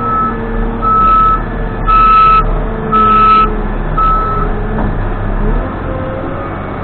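Case 580N backhoe's reversing alarm beeping about once a second, five beeps, then stopping a little past four seconds in, over the machine's diesel engine running with its pitch shifting as it works.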